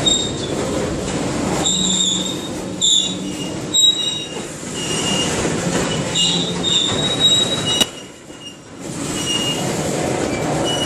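Freight train of tank cars rolling past, wheels rumbling on the rails, with wheel squeal coming and going in short high-pitched tones.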